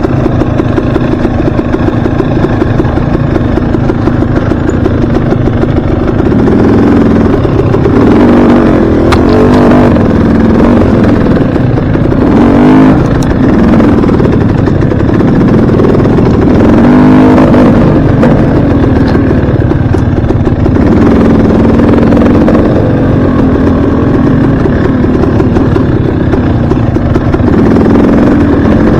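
Dirt bike engine running under way, loud and close, with the throttle opening and closing so that the engine pitch rises and falls several times.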